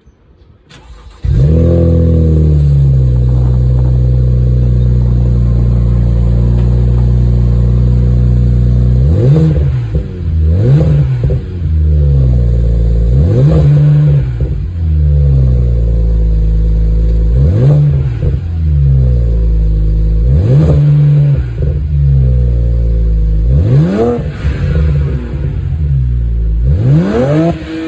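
BMW Z4 E89 35i twin-turbo straight-six, breathing through an Eisenmann exhaust, starting up with a brief flare and settling into a steady idle. From about nine seconds in it is blipped repeatedly, about ten quick revs that rise and fall back to idle.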